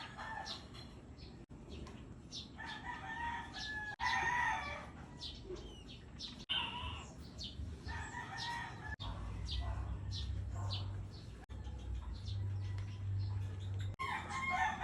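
Bantam chickens calling in short repeated clucks, mixed with many quick high chirps from sparrows. A low hum sits underneath through the second half.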